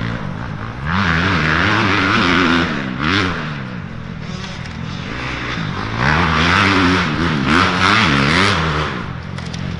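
Dirt bike engines revving up and down through the gears as racing bikes go past, with two louder passes about five seconds apart.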